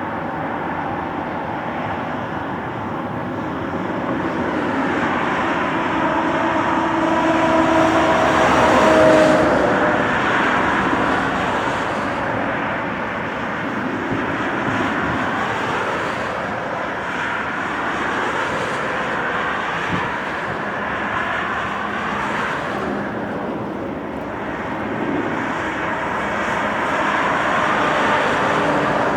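Lockheed Super Constellation's four Wright R-3350 radial piston engines at takeoff power, with propeller noise. It swells to its loudest about nine seconds in as the aircraft passes, with a brief steady hum at the peak, then fades a little and stays fairly even.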